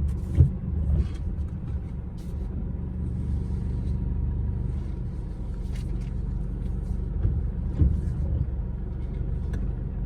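Small vehicle engine running at a steady pace, with a low rumble, and a few short knocks and rattles along the way.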